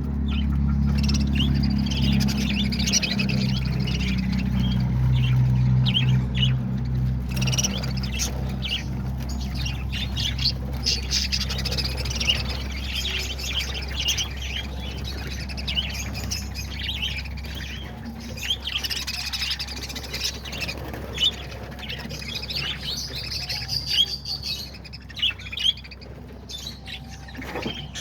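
A flock of caged budgerigars, lovebirds and cockatiels chattering, chirping and squawking without a break. Under the chatter, a steady low hum fades out about halfway through.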